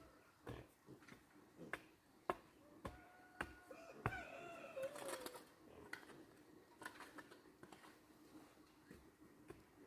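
Faint, regular knocks a little under two a second, then sparser, like tool strikes in rural work. A chicken's drawn-out call slides downward in the middle.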